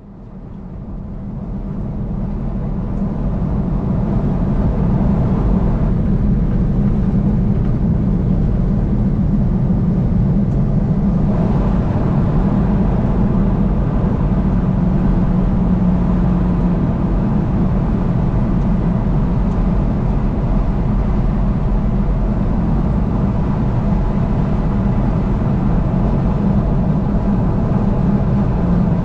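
Car travelling at highway speed: a steady low rumble of engine and tyre noise that fades in over the first few seconds and then holds level.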